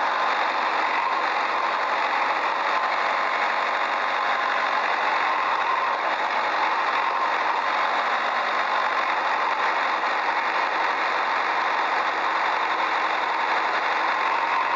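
A motor or engine running steadily, with an even, unchanging whir that has little bass.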